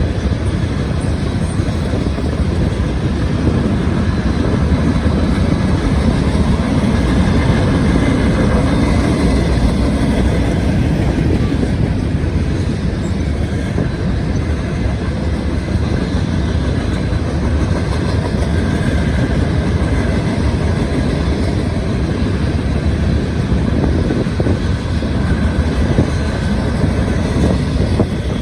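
Long CSX freight train rolling past, its cars making a steady, loud rumbling rail noise.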